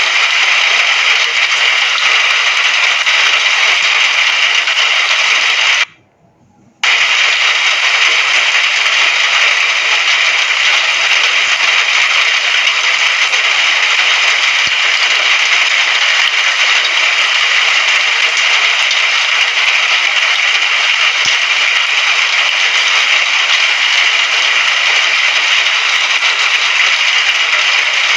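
Rain sound effect: a steady, dense hiss of falling rain, which cuts out for under a second about six seconds in.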